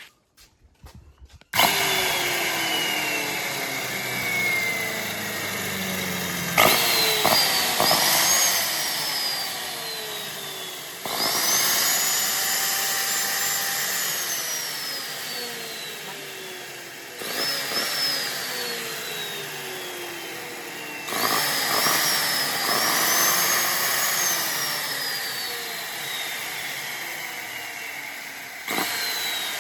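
Electric drilling power tool running in repeated cycles. About every five seconds the motor surges, its whine jumps up in pitch and then sinks slowly as the bit bears into the work.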